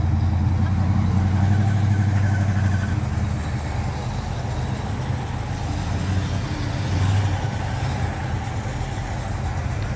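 Car engine running with a deep, steady low rumble, loudest for the first three seconds and then settling a little quieter.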